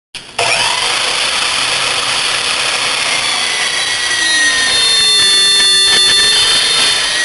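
REXON metal-cutting sliding miter saw cutting through metal: a loud, steady, harsh cutting noise that starts abruptly. From about four seconds in, high ringing tones from the blade and workpiece come in and slowly drop in pitch.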